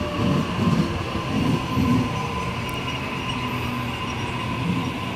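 Waratah Series 1 double-deck electric train pulling into a station platform: a steady rolling rumble with a thin, steady high tone riding over it.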